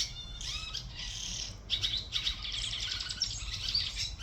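A group of swallows chattering: many quick, overlapping high chirps and twitters without a break.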